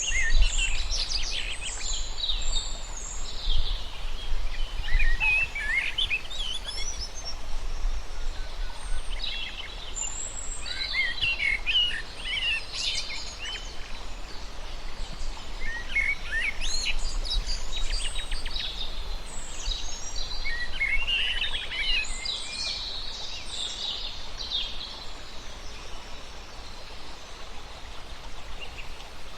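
Songbirds singing in repeated bouts of quick chirps and trills, a few seconds each with short pauses between, over a low steady rumble.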